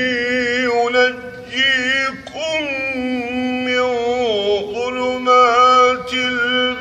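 A man's voice reciting the Quran in melodic tajweed style, drawing out long ornamented notes with wavering, gliding pitch and brief breaks between phrases.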